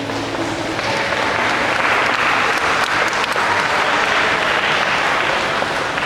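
Audience applause at the end of a choir song: the last sung note fades at the start and the clapping swells about a second in, then holds steady.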